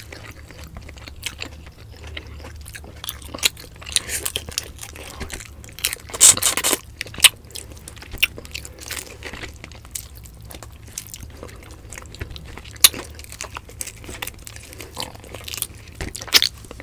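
Close-miked eating sounds: chewing and nibbling cooked fish off its backbone, with wet mouth clicks and scattered sharp, crunchy bites. A few bites stand out louder, about six seconds in, near the middle and near the end.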